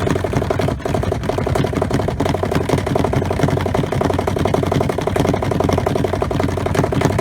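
Spin side of a small electric twin-tub camp washer spinning a load of clothes: a steady motor hum with a fast, even rattle.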